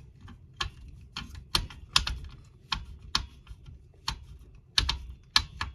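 About ten sharp, irregularly spaced clicks and taps: small screws and plastic model-kit parts being picked up and handled.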